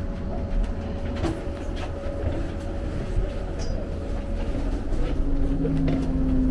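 Train running on the rails: a steady low rumble with scattered clicks and a sustained tone, and lower steady tones coming in near the end.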